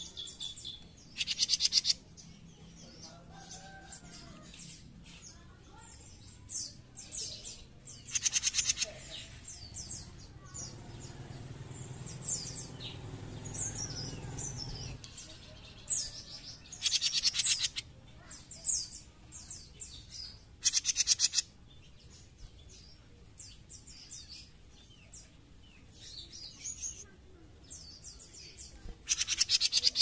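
Caged jenggot mini bird calling: about five loud, rapid rattling trills, each under a second long and several seconds apart, with softer high chirps between them. A low hum swells and dies away in the middle.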